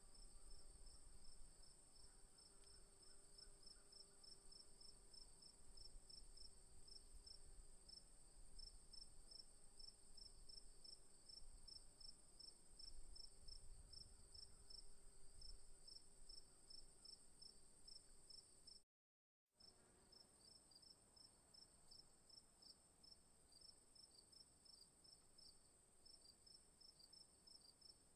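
Faint chorus of night insects such as crickets: a steady high-pitched trill with a second, rapidly pulsing chirp just below it, over a faint low rumble. The sound cuts out completely for about half a second a little past two-thirds of the way through.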